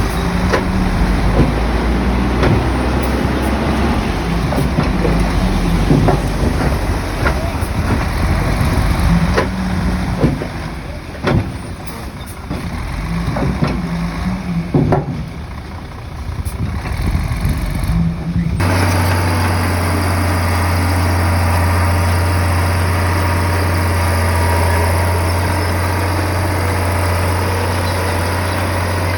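Komatsu bulldozer's diesel engine working, its pitch rising and falling with load, with scattered sharp knocks and clanks. About two-thirds of the way in, the sound switches abruptly to a steady low engine drone.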